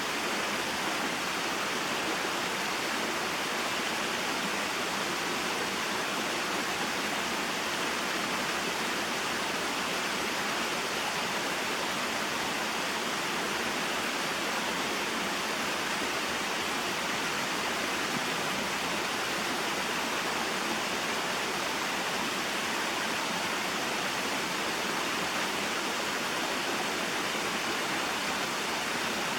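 Small mountain waterfall and stream: water falling and rushing over rocks, a steady, even hiss-like splashing.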